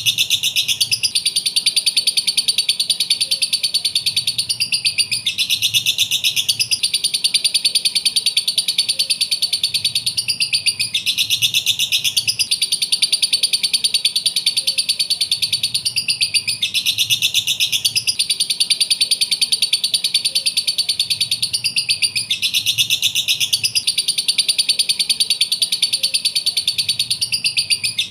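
Lovebirds chirping in a rapid, unbroken shrill chatter, the same run of calls repeating about every six seconds. It is a lure call meant to set other lovebirds chirping back.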